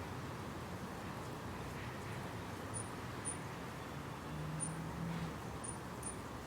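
Steady outdoor background noise with the low rumble of distant road traffic; a low hum swells briefly a little past the middle.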